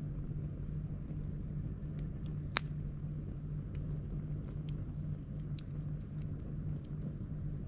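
Campfire wood crackling with scattered small pops and one sharp pop about two and a half seconds in, over a steady low pulsing hum.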